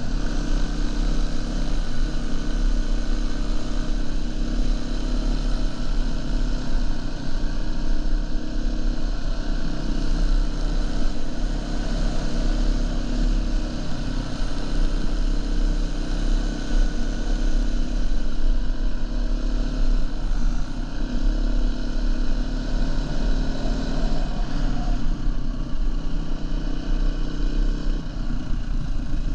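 Dirt bike engine running steadily under way, with a heavy low rumble underneath.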